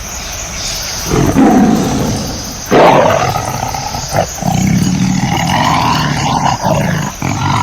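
A big cat roaring, several loud roars one after another, the loudest about three seconds in.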